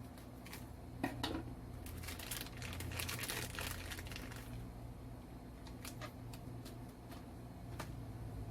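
Packaging crinkling as it is handled and opened, with a few sharp clicks about a second in and a denser stretch of crinkling in the middle.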